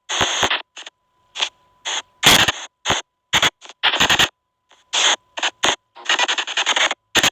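Ghost-box app (SP White Noise Box) playing rapid, choppy bursts of static and clipped sound fragments that cut on and off several times a second. A faint steady tone runs underneath from about a second in.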